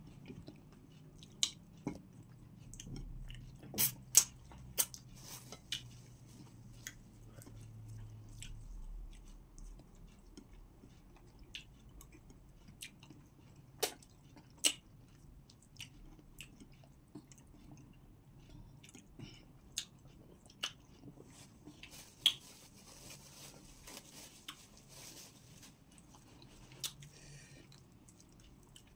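People chewing and eating pounded yam with okra soup by hand, close to the microphone, with many sharp wet clicks scattered through, the loudest about four seconds and fourteen seconds in. A low hum sits under the first eight seconds.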